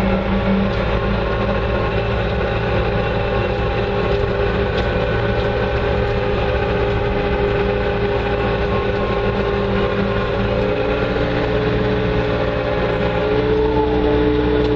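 Bobcat 2410 articulated loader's engine running steadily, heard from inside the cab, its pitch rising slightly near the end.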